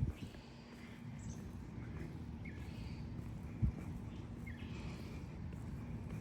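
A bird chirping again and again, short notes about once a second, over a steady low background hum. One brief dull thump about three and a half seconds in.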